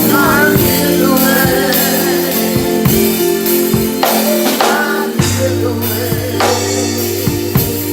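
Live gospel music: a voice singing over held keyboard chords, with drum strikes throughout. The bass note changes about five seconds in.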